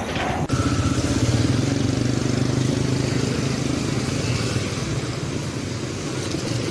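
An engine running steadily with a low, even hum. It comes in abruptly about half a second in.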